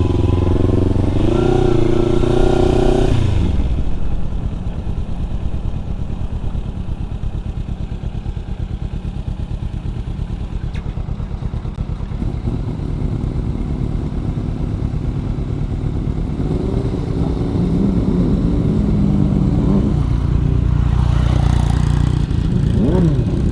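Motorcycle engine revving up under acceleration with rising pitch for about three seconds, then backing off suddenly and running steadily. The revs climb again in the last several seconds.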